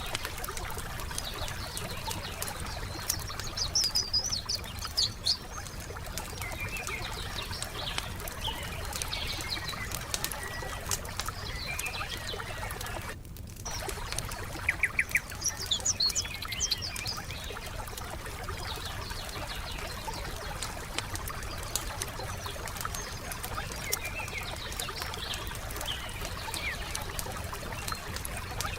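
Wood campfire crackling with frequent small pops and snaps, while small birds chirp and twitter in short bursts now and then. The sound drops out for a split second about halfway through.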